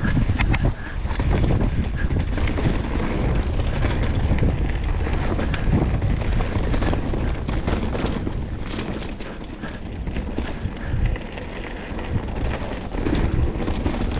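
Mountain bike descending a rough singletrack. Wind rumbles on the microphone, with many knocks and rattles from the tyres and bike going over rocks and roots.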